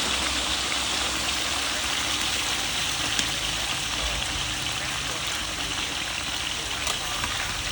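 Chicken legs sizzling in a hot pan: a steady, loud hiss with a couple of small pops.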